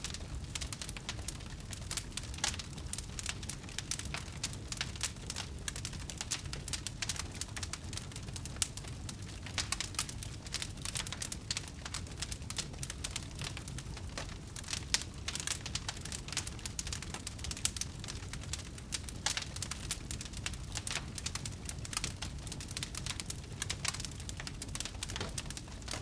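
Wood fire in a fireplace crackling: a dense, irregular stream of sharp pops and snaps over a low, steady rumble of the flames.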